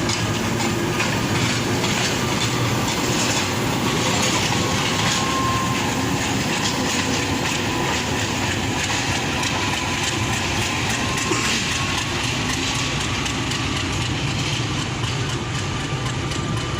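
Train rolling on rails: a steady rumble with wheels clicking over rail joints, and a faint thin wheel squeal in the middle.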